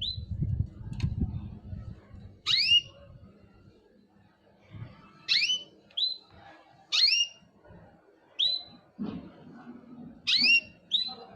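Small cage bird giving short, sharply rising whistled calls, about seven of them every second or two. A low rumble sits under the first two seconds.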